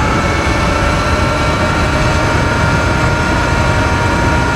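Sur-Ron Light Bee electric dirt bike's motor whining steadily at an even speed over heavy wind rumble on the helmet-camera microphone while riding.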